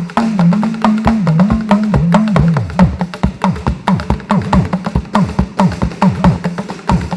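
Live band music with no singing: quick, dense drum and percussion strokes over low notes that keep sliding down in pitch.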